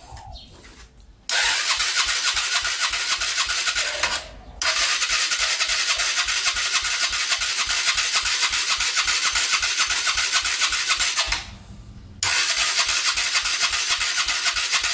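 Honda Cargo single-cylinder four-stroke motorcycle engine cranked over by its starter in three long attempts, with short pauses between, never catching. It won't fire because the spark plug is disconnected.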